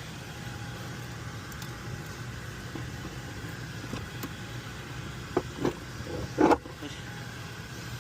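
A steady low machinery hum, with three short, loud knocks from handling work between about five and a half and six and a half seconds in, the last the loudest.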